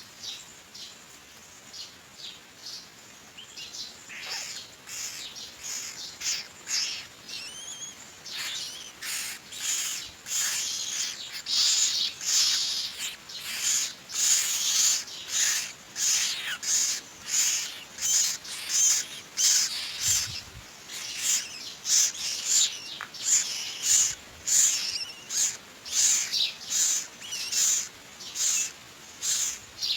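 Myna chicks in the nest giving short raspy calls, repeated a little over once a second, growing louder from about eight seconds in. A few brief rising whistled notes come near the start of that louder stretch.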